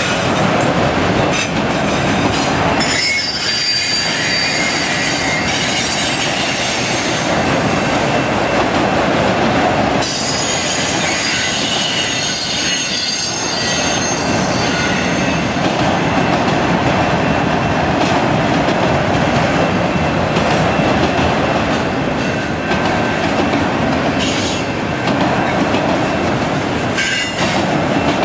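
Enclosed autorack freight cars rolling past close by: a steady, loud rumble and rattle of steel wheels on rail. A thin, high wheel squeal comes and goes over it.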